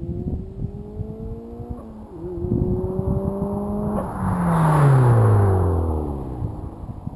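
Turbocharged Mazda Miata four-cylinder accelerating hard past, with an upshift about two seconds in. It is loudest about five seconds in as it goes by, then its pitch drops and it fades away.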